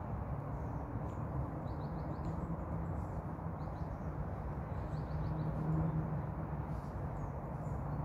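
Outdoor ambience of a steady low rumble, with a hum that swells about two-thirds of the way through. Small birds chirp faintly in a few short quick series over it, mostly in the first half.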